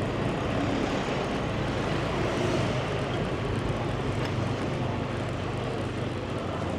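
Motorbike engine running steadily while riding, with wind and road noise over it.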